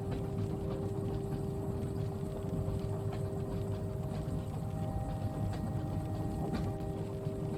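Steady low rumble of a train carriage in motion, with a constant hum and scattered light ticks of rain on the window.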